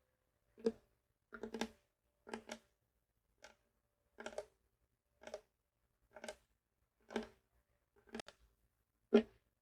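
A series of short, light taps or clicks, about one a second, some coming in quick pairs or threes, each with a brief hollow resonance.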